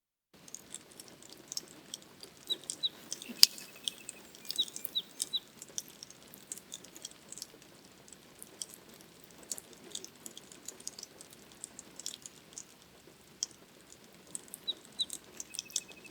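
Rain pattering with many small drip ticks, and short runs of high chirping bird calls a few seconds in, around five seconds in and again near the end. A single sharp click about three and a half seconds in.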